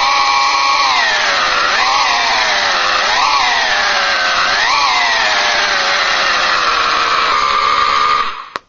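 Recorded Formula One race car engine sample played through the MrRCSound V4.1 sound unit's speaker: a high-pitched engine note held near high revs that dips and climbs back sharply three times, settles lower near the end, then cuts off with a click.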